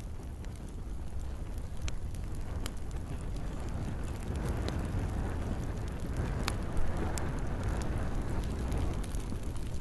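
Campfire crackling: scattered sharp pops and snaps, one louder pop about two-thirds of the way through, over a steady low rumble and the hiss of gentle rain.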